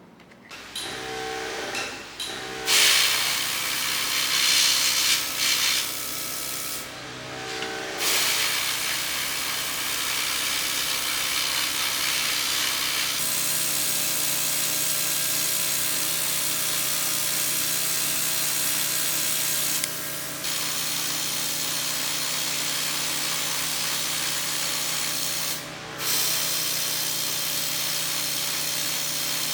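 A power tool running with a strong hiss and a steady hum. It stops and restarts briefly a few times.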